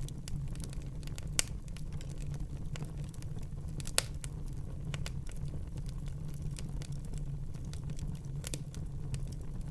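Fire burning in a fireplace: a steady low rumble of flames with frequent small crackles, and two sharp pops, about a second and a half in and at four seconds.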